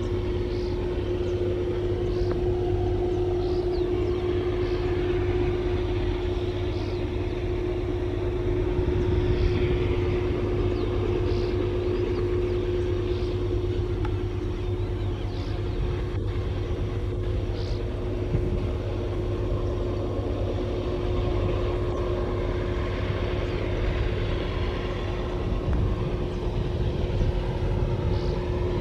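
Long, heavily loaded freight train rolling slowly past on a steep upgrade: a steady rumble of wagon wheels on the rails under a constant hum, with faint short high chirps about every two seconds.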